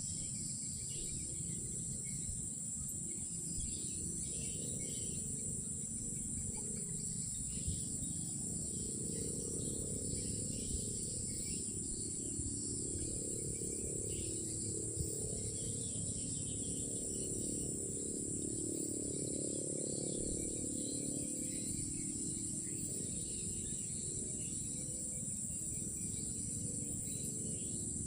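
A steady, high-pitched chorus of night insects, crickets, droning without a break, over a low rumble.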